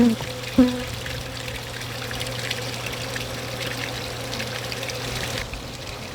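Honeybees buzzing in a crowd as they feed on extracted honey frames. Two bees pass close by with brief loud buzzes, at the very start and about half a second later, over a steady hissing drone.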